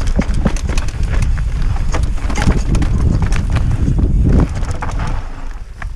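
Wind buffeting the microphone over the clatter of a mountain bike descending a rough trail, with rapid irregular ticks and knocks from the bike jolting over the ground. The rumble eases near the end.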